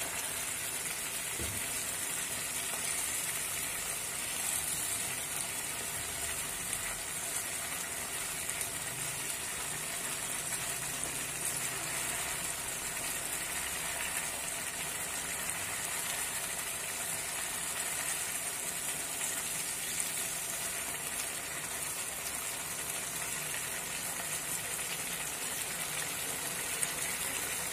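Yogurt-marinated chicken pieces sizzling steadily in oil and gravy in a frying pan, stirred now and then with a wooden spatula.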